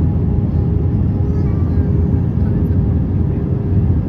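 Steady cabin rumble of an Airbus A320, its engines and airflow heard from a window seat, with a faint steady hum over the deep noise.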